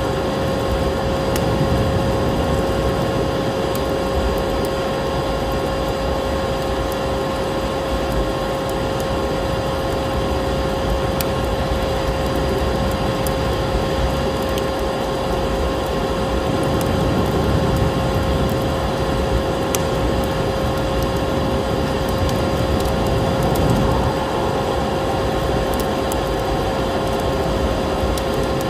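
A vacuum cleaner's motor running steadily with a constant whine, over the scattered sharp crackles of a wood fire and a low rushing of storm wind.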